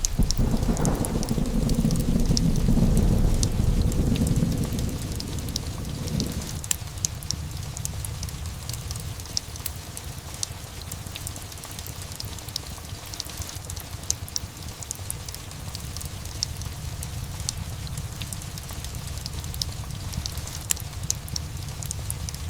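Thunder rumbling low and loud over steady rain, ending about six and a half seconds in; after that, steady rain with scattered sharp crackles of a fireplace.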